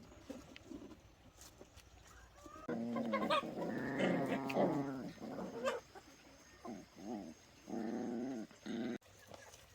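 Dogs whining in wavering, drawn-out cries: a long overlapping stretch starting about three seconds in, then a few shorter cries near the end.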